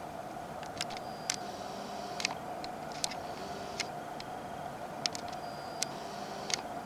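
Small birds chirping: scattered sharp chirps at irregular intervals and a few short, high, held whistles, over a steady low hum.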